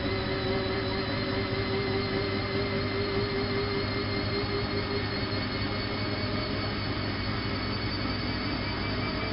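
Bosch WFK 2431 washing machine running, its drum motor giving a steady whine made of several tones over a rumbling hum. The higher tones creep slightly upward near the end as the motor speeds up.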